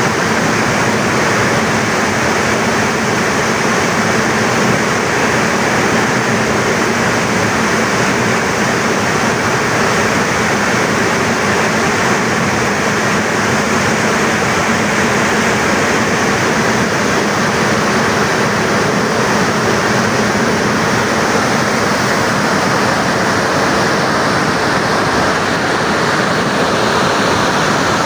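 Steady, loud rush of water discharging through the Tarbela Dam service spillway, with no change in level throughout.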